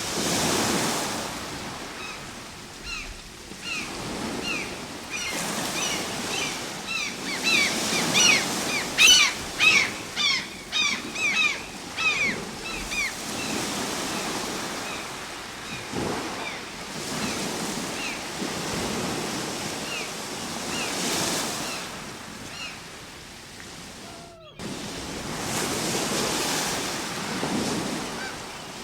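Ocean waves washing ashore in slow swells, one after another. Over the first half a flock of birds calls in quick, repeated short notes, thickest a third of the way in, then thinning out. There is a brief dropout about three-quarters of the way through.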